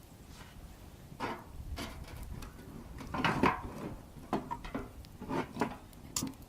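Wood being handled at a campfire: a run of irregular wooden knocks and clatters, loudest about three seconds in.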